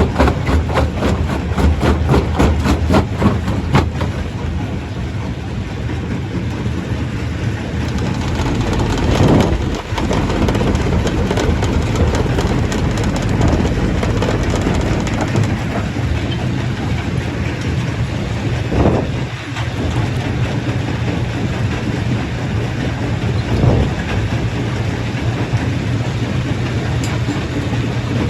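Stone crusher running with a loud, steady mechanical rumble, with a rapid run of regular knocks over the first few seconds.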